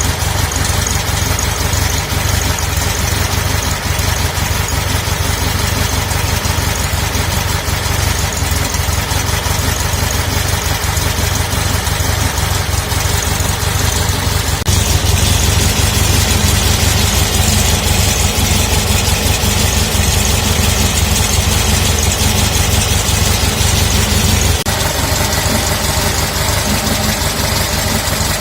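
Air-cooled VW 1641cc flat-four on dual Weber 40 IDF carburettors running steadily through a new Trimil exhaust, mostly at idle. It gets louder and brighter from about fifteen seconds in for some ten seconds, then settles back.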